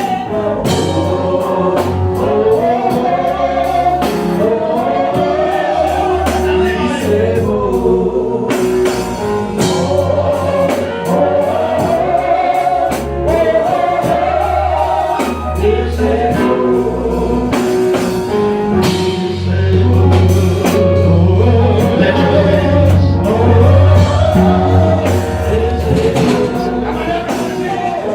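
Gospel song: a choir and voices singing over an instrumental backing with a steady bass line.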